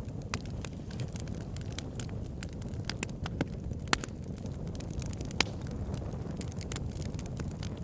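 Wood fire burning in a fireplace: irregular crackles and snaps over a steady low rumble of the flames, with two louder pops about four and five and a half seconds in.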